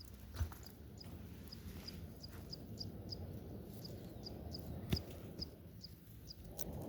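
Outdoor ambience with a short, high chirp repeating about two or three times a second, over a low rumble and a couple of soft knocks.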